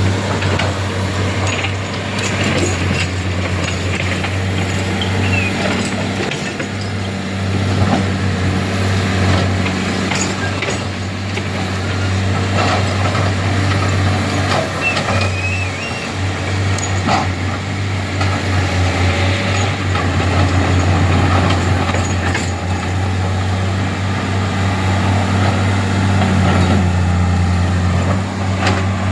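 Heavy diesel engines running steadily with a low drone, with scattered short knocks and clanks on top.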